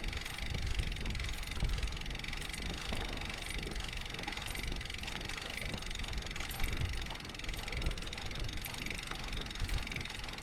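Bicycle freewheel hub ticking as the bike coasts, over a steady low rumble from the ride.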